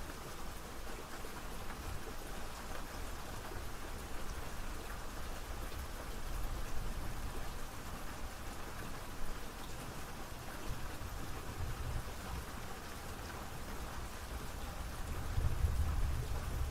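Steady rain falling and pattering on surfaces, an even hiss of drops, with a low rumble swelling near the end.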